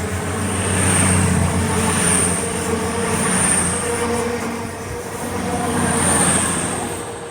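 Class 222 Meridian diesel multiple unit moving along the platform. Its rumble and wheel noise swell and ebb in waves under a steady high, thin whine, then fade away near the end.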